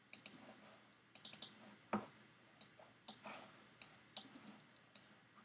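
Faint, irregular clicking of a computer mouse: a dozen or so small clicks, with one louder click about two seconds in.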